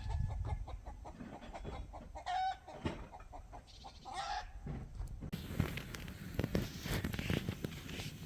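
Chickens calling, three short calls a couple of seconds apart. About five seconds in, the sound cuts to a steady hiss with scattered crackles.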